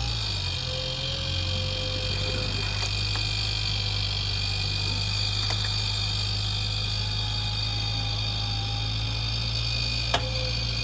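Off-road 4x4's engine running steadily at low revs, a low hum with a constant high-pitched whine over it. A single sharp click about ten seconds in.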